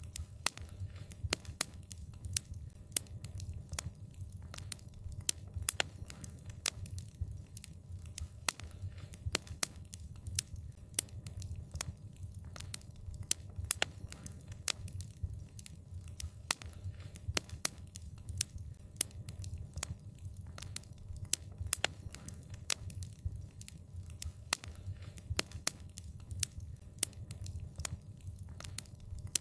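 Wood fire crackling: many sharp irregular pops and snaps, several a second, over a steady low rumble of the burning.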